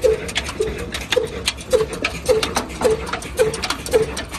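Old desi diesel engine running slowly, with a short low exhaust thud about twice a second and sharp clattering knocks between the beats.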